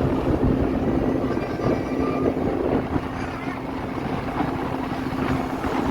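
Speedboat engine running with a steady hum over a low, rushing rumble.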